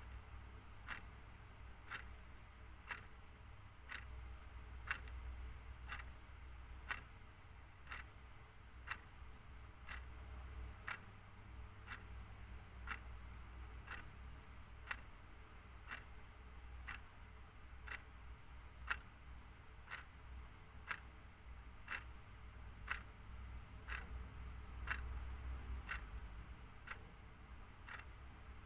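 Mechanical clock ticking steadily, about one tick a second, over a faint low hum.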